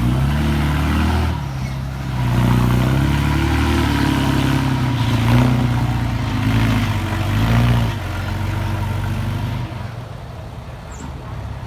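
Mini bulldozer's diesel engine working hard, its pitch rising and falling again and again as it revs under load, then settling lower and quieter for the last few seconds.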